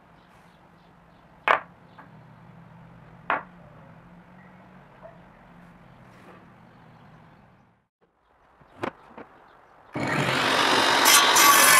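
A few sharp knocks of metal tools being handled over a faint low hum, then near the end a power tool starts abruptly and runs loud and steady.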